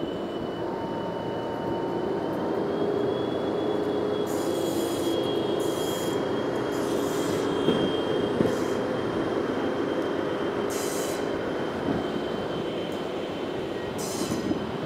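SM42 diesel locomotive hauling a TLK passenger train slowly past, its engine running with a steady rumble as the wheels squeal on the rails. A high, steady squeal runs throughout, with several short hissing bursts over the last two-thirds.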